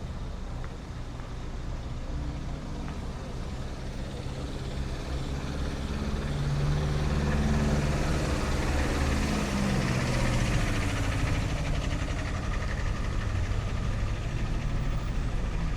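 Road vehicle engine passing close by, growing louder about five seconds in, with its pitch dropping as it goes past.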